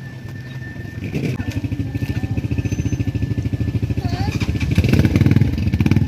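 A motor engine running with a rapid, even throb that comes in louder about a second in, with a voice heard briefly in the middle.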